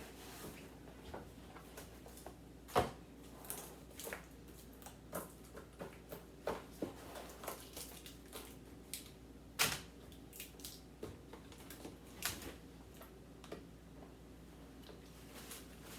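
Irregular clicks and knocks of plastic food containers and packages being handled and set down while a fridge is emptied, with two sharper knocks, one about three seconds in and one near ten seconds.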